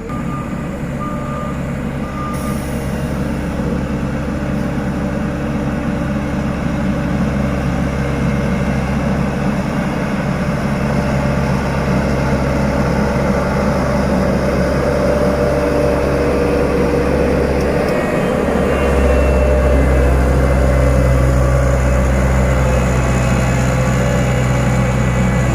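Heavy diesel road-construction machine running steadily and growing gradually louder, its low drone deepening and strengthening about 18 seconds in. A few short beeps, like a reversing alarm, sound near the start.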